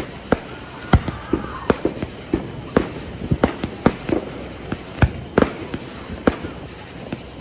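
Fireworks exploding in a rapid, irregular barrage: about twenty sharp bangs in a few seconds, some louder and some fainter, with brief ringing after the loudest.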